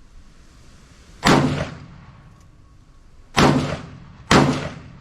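AK-pattern rifle firing three single shots, each with a short echoing tail; the last two come about a second apart.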